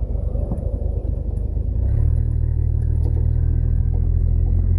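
1979 Ford Granada's engine running under way, a steady low rumble that grows louder about two seconds in.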